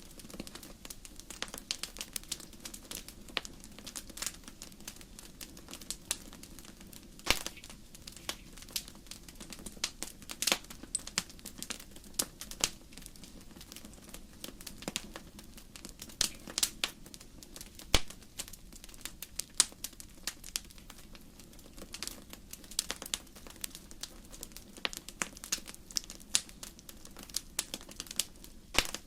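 Wood fire crackling: irregular sharp pops and snaps of burning logs over a low steady rumble of flame, with a few louder pops scattered through.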